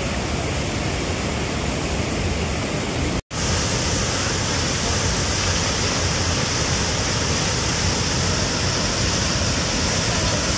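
Steady rushing of a nearby river or waterfall: a loud, even wash of water noise, with a sudden momentary dropout about three seconds in.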